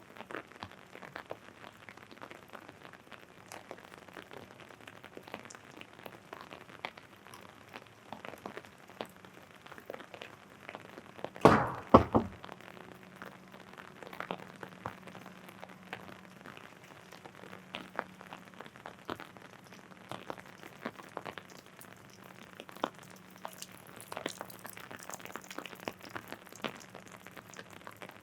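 Rain pattering on an umbrella, a steady scatter of small drop ticks. About halfway through, two loud sharp knocks in quick succession stand out above the rain.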